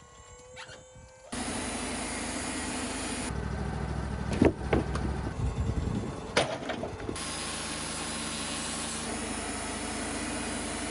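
Sawmill engine running steadily, broken by abrupt cuts between takes. In the middle stretch the engine hum is deeper and two sharp knocks ring out about two seconds apart.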